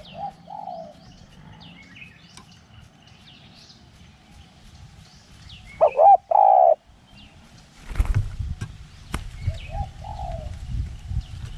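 Spotted dove cooing: a short coo just after the start and a loud three-part coo about six seconds in, with small birds chirping high in the background. From about eight seconds on, wind rumbles on the microphone.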